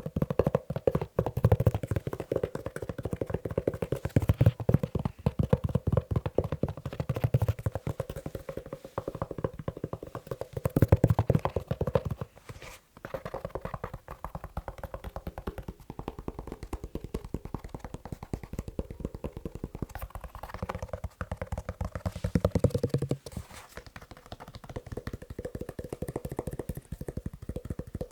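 Fingers tapping fast on a leather shoe, a dense run of quick taps with a brief break a little before the middle.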